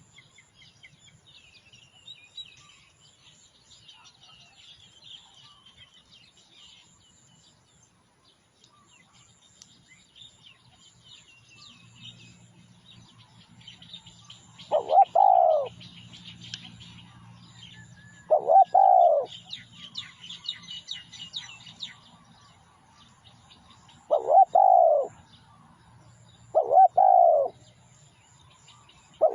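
Spotted dove cooing: from about halfway in, four loud coos a few seconds apart, with a fifth starting at the very end. Small birds chirp faintly and high-pitched throughout.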